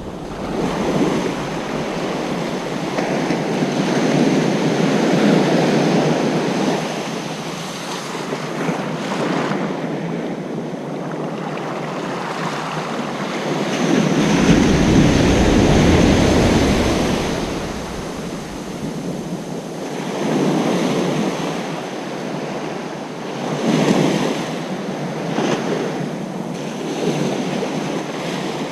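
Ocean surf breaking on a beach, washing in and out in repeated swells, with the loudest wave about halfway through.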